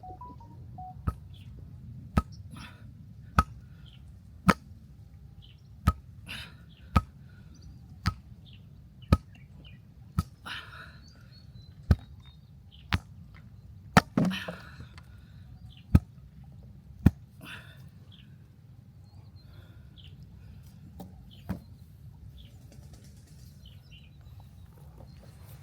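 A steady series of sharp blows from a hand tool striking something hard, about one a second, around fifteen strikes. They stop after some seventeen seconds, with one last blow a few seconds later.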